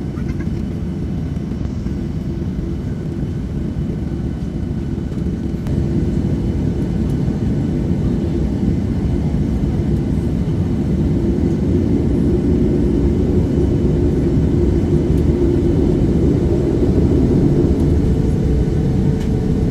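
Cabin noise of a Boeing 737-800 with its CFM56 engines running: a steady low rumble and drone that steps up about six seconds in and then keeps building gradually, as engine power is increased.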